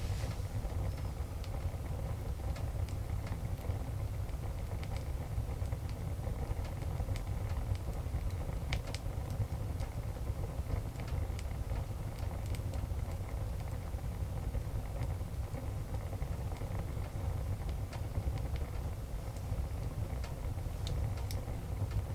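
Wood fire burning, with sparse sharp crackles and pops scattered over a steady low rumble.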